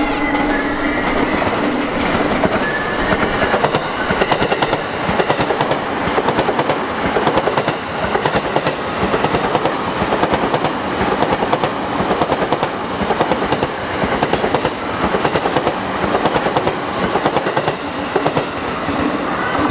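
Electric commuter train passing close by at speed, its wheels clattering over the rail joints in an even, repeating clickety-clack.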